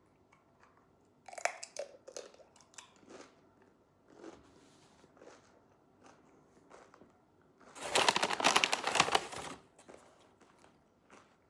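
Close-up crunching of someone biting and chewing crunchy food, in scattered crackles with a louder, denser run of crunching about eight seconds in that lasts a second and a half.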